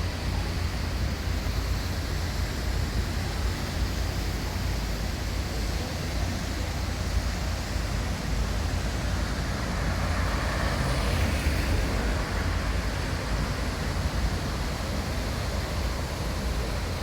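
Steady city street background noise, a low rumble with a hiss, from traffic on the surrounding streets; it swells slightly around ten seconds in.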